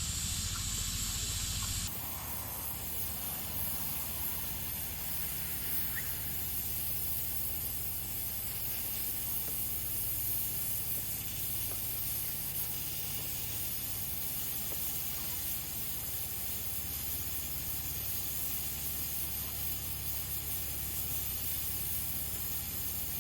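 Steady hissing noise over a low rumble, with a change in its tone about two seconds in.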